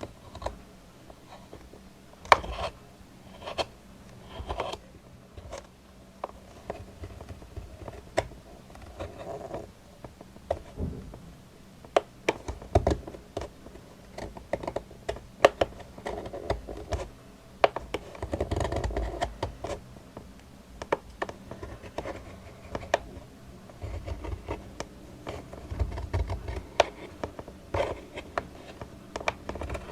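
Close-miked ASMR trigger sounds: irregular scratching and tapping on objects, with many sharp clicks and a couple of brief rubbing passages.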